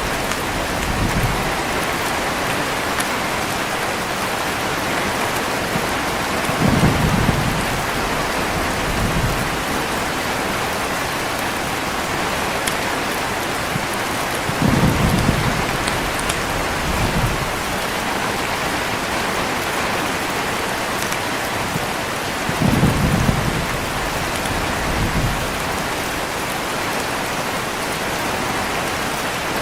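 Heavy rain falling steadily, with three low rumbles of thunder about eight seconds apart.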